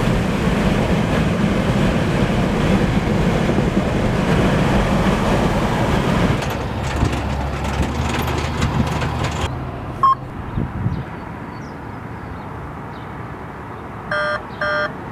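Steady vehicle rumble and road noise that fades about nine seconds in. Near the end comes a run of short, evenly spaced electronic beeps.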